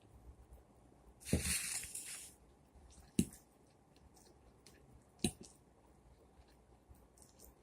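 Close-up eating sounds: a wet, squishy bite about a second in, then two short, sharp mouth clicks a couple of seconds apart.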